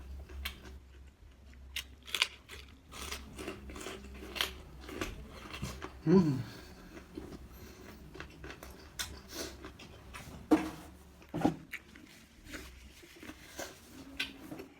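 Close-miked chewing and crunching of food, with irregular wet clicks and smacks of the mouth and a brief hummed sound about six seconds in.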